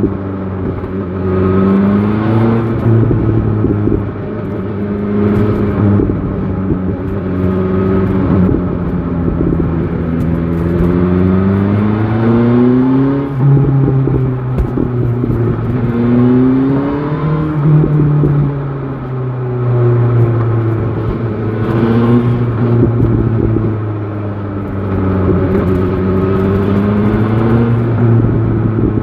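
BMW S1000 XR inline-four motorcycle engine riding through town. Its pitch climbs and falls back several times as it accelerates and changes gear, with wind noise over the microphone.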